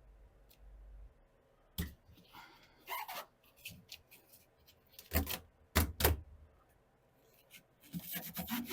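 Scattered taps, knocks and crinkling as a sheet of sound-deadening mat is handled and pressed into place by hand, getting busier near the end.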